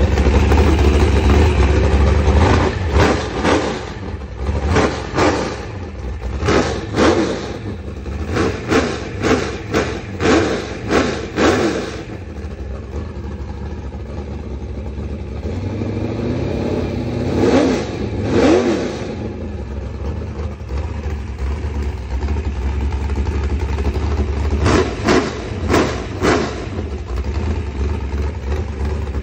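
A 600 hp 406 small-block Chevy V8 on an engine run stand, idling and blipped by hand at the carburetor linkage. It gives about a dozen quick throttle stabs in a row over the first twelve seconds, one longer rev that rises and falls back to idle around the middle, and four more quick blips near the end.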